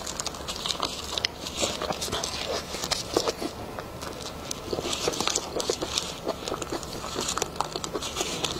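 Close-up eating sounds: a soft, chewy pastry being bitten and chewed, with many small wet mouth clicks. Its thin plastic film wrapper rustles and crinkles in short spells as it is peeled back.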